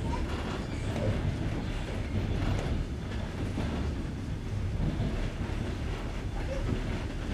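Passenger train carriage running on jointed rails, heard from inside at an open window: a steady low rumble of the wheels and running gear with faint irregular knocks.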